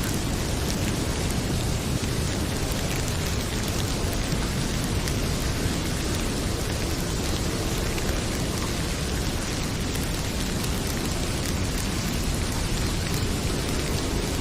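Heavy rain pouring steadily, a dense even hiss with a low rumble beneath it, while a log fire crackles faintly in the foreground.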